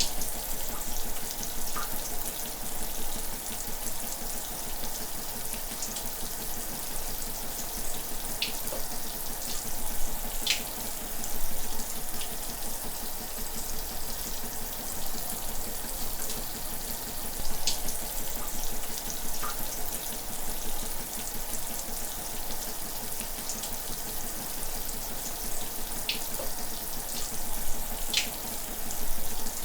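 Shower running steadily, an even hiss of falling water spray, with a few brief sharper splashes standing out.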